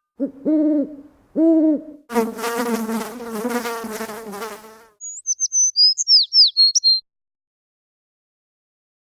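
Library sound effects played in turn: two short hollow hoots like an owl's, then about three seconds of a wavering insect-like buzz, then a quick run of high bird chirps that stops about seven seconds in.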